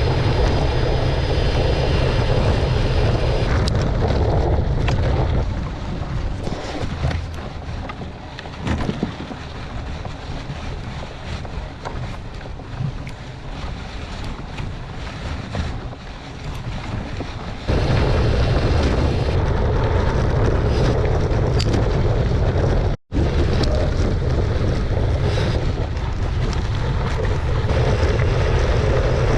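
Wind buffeting the microphone of a camera riding along on a moving gravel bicycle, a loud, low, steady rush. It eases off about five seconds in, comes back abruptly a little before eighteen seconds, and drops out for an instant a little after twenty-three seconds.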